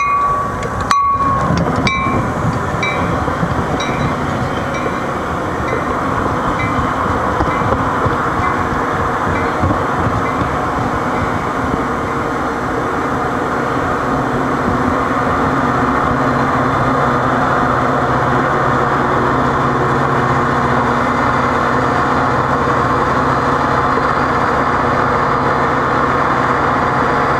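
Metra commuter train running past with a continuous rumble of wheels on rail. A ringing bell sounds about twice a second for the first several seconds, typical of a railroad crossing bell, then fades under the train.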